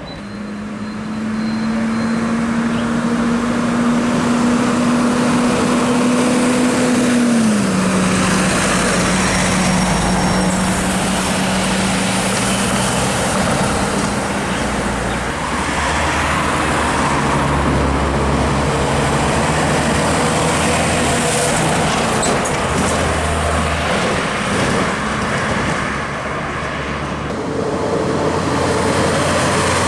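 Heavy diesel trucks driving past with road noise; one engine's note climbs slowly, then drops in pitch about seven seconds in, and other engines run low under it.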